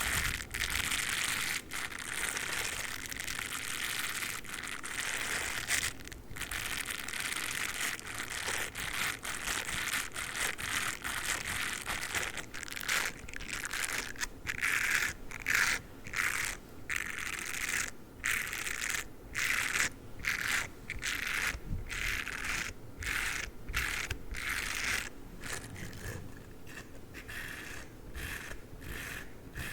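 Dog toothbrush bristles brushed and scratched against the microphone, a dense scratchy rustle. About halfway through it breaks into quick separate strokes with short pauses between them.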